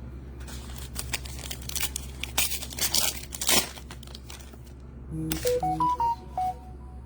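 Trading-card pack wrappers being torn open and crinkled: a run of sharp rips and crackling. About five seconds in, a short electronic jingle of stepped beeping tones plays.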